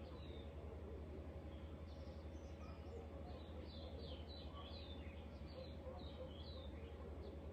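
Small birds chirping: a flurry of short, falling high chirps, thickest from about two seconds in, over a steady low hum.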